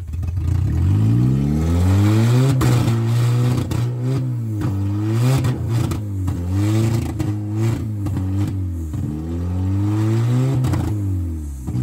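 Engine of a wrecked, stripped demolition-style car being revved up and down again and again. The pitch climbs and drops in repeated pulls, with a steady loud exhaust note between them.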